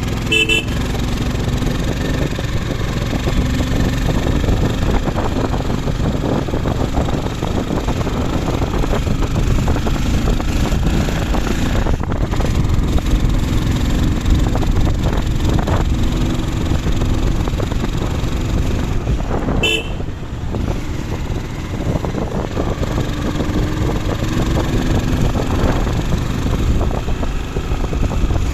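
Steady noise of a running motor vehicle and its road noise, with a short horn beep about twenty seconds in.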